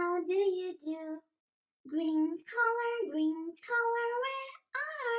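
A child-like voice singing a simple nursery tune in held notes that step up and down, with a short pause about a second and a half in.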